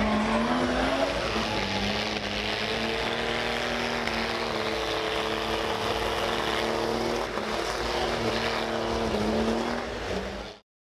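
Car engine held at high revs, its note wavering slightly up and down, over the noisy hiss of tyres spinning in a burnout. The sound cuts off shortly before the end.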